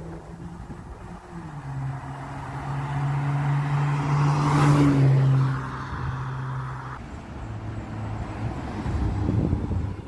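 2018 Acura TLX A-Spec's V6 with a custom Magnaflow-muffled cat-back exhaust driving past at a steady note. It grows louder to its loudest about halfway through, then fades as the car moves away, with a smaller swell of exhaust sound near the end.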